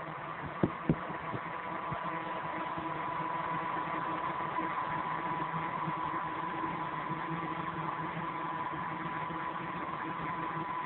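Fireplace grate heater's electric blower fan running steadily, a hum with a steady high tone through it. Two sharp clicks sound about a second in.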